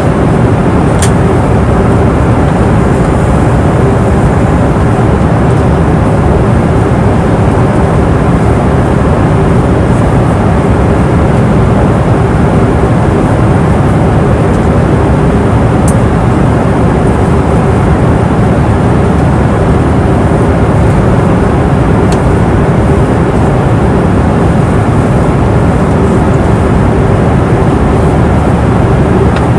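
Airliner cabin noise in flight: a steady rumble of engines and airflow with a constant low hum running through it.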